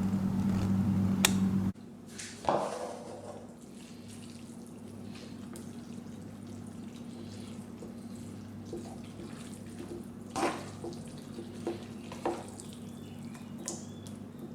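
A steady low electrical hum, like a kitchen appliance or extractor fan, cuts off sharply a couple of seconds in. Then comes quieter kitchen room noise with a few light clinks and taps, about four of them spread out and the loudest near the end.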